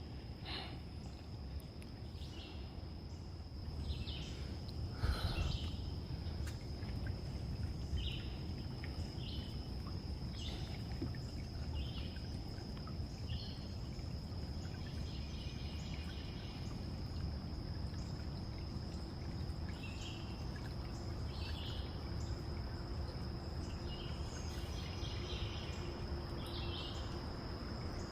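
Outdoor nature ambience: birds give short chirps every second or two over a steady, high insect drone, with a low rumble of wind or handling noise underneath.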